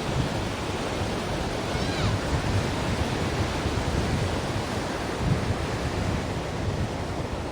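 Ocean waves washing on the shore, a steady rush of surf with a deep low rumble. A faint short whistle-like glide sounds about two seconds in.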